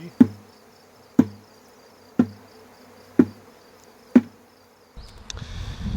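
Tanging a bee swarm: a metal object struck five times, about once a second, each strike a sharp clang with a short ring, over the faint buzz of the swarm. About five seconds in, a louder rumbling noise takes over.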